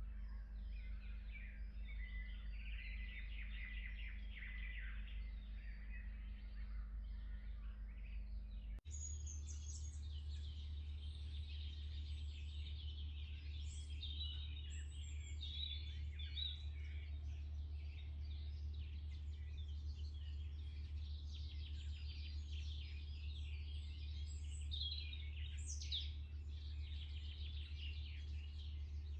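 Wild birds chirping and singing, with many short overlapping calls over a steady low background hum. About a third of the way in, the background changes abruptly and the birdsong becomes busier and higher-pitched.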